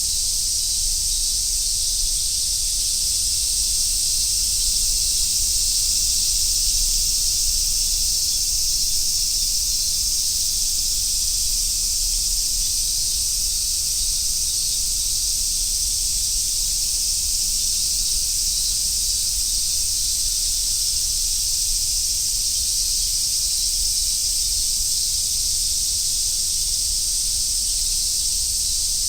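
Chorus of summer cicadas, such as large brown cicadas (aburazemi) and minminzemi, making a dense, steady, high sizzling drone without pauses.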